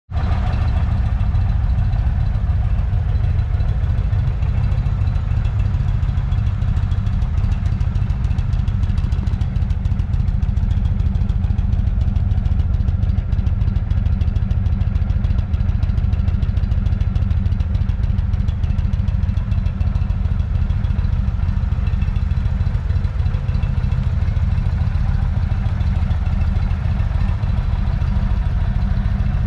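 2019 Indian Chief Dark Horse's air-cooled Thunder Stroke 111 V-twin idling steadily.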